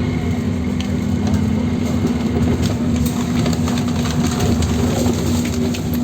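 Scania OmniLink CK270UB city bus under way: a steady diesel engine hum over road noise, with scattered small rattles and clicks.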